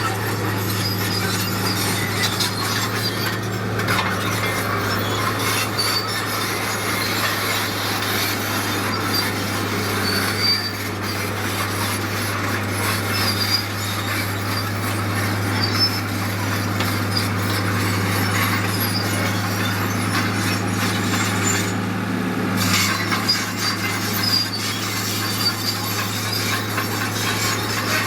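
Heavy earthmoving machinery at work: a steady low engine drone under continuous rasping, scraping and squealing, like a bulldozer's steel tracks and blade working soil.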